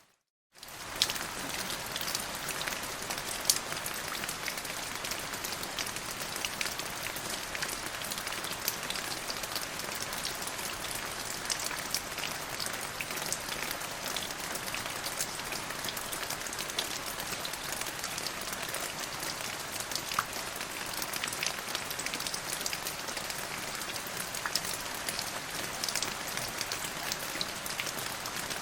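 Steady rain falling, with many individual drops ticking through the even hiss and a couple of louder drop hits in the first few seconds. The sound cuts out for about half a second at the very start.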